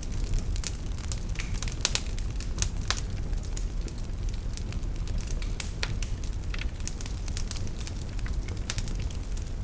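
Fire burning in a fireplace: irregular crackles and sharp pops over a steady low rumble.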